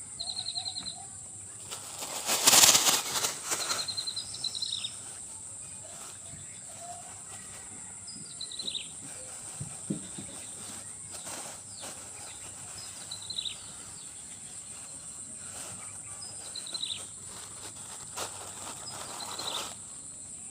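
Steady high-pitched insect drone, with a bird giving short falling calls every few seconds. A loud rustling noise about two to three seconds in.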